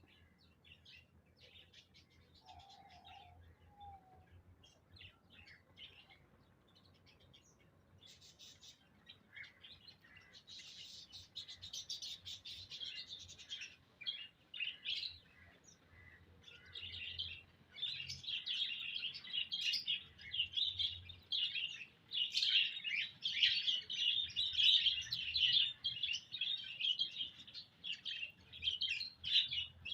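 Small pet birds chirping: scattered high chirps at first, building about halfway through into a dense, continuous high-pitched twittering that grows louder toward the end.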